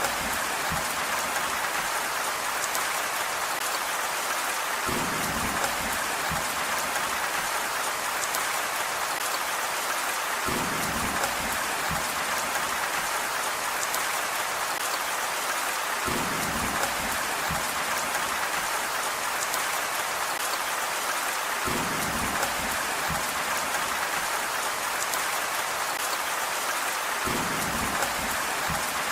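Steady rain falling, with a low rumble swelling up about every five and a half seconds.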